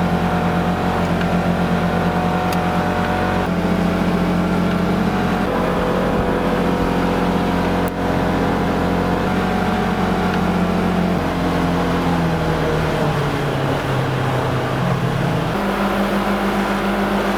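Farm buggy's engine running steadily as it drives through deep snow, its revs stepping up a few seconds in, dropping back later and rising again near the end.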